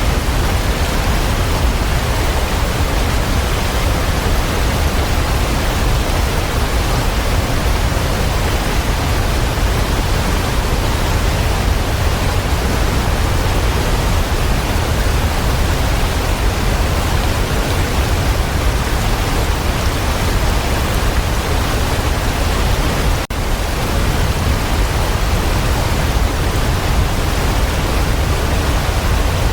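Waterfall: a steady, dense rush of falling water, heaviest in the low end, with one momentary dip in level about three-quarters of the way through.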